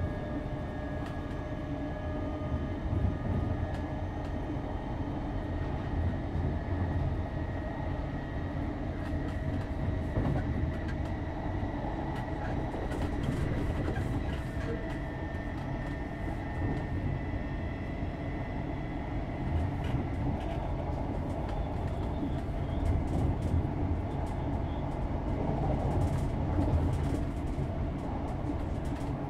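Class 321 'Renatus' electric multiple unit heard from inside the passenger saloon while running: a steady rumble of wheels on rail with a thin steady whine over it and scattered clicks.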